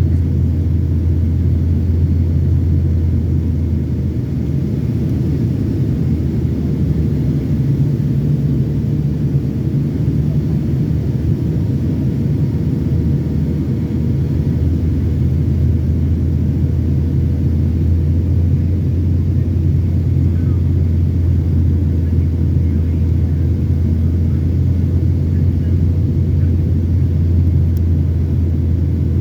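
Steady low rumble of airliner cabin noise inside a Boeing 757-300 on final approach: engine and airflow noise heard from a seat in the cabin, with a faint steady hum above it.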